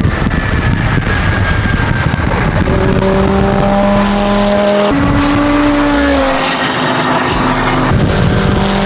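Twin-turbo Lamborghini Huracán's V10 engine running hard at high revs under acceleration, its pitch stepping about five seconds in.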